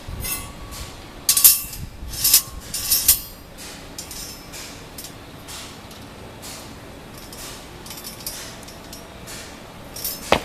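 Metal parts of a campfire table and its sliding pot trivet clinking and clanking as they are handled and slid into place. There are a few loud clanks in the first three seconds, then lighter taps and clicks, and one sharp click near the end.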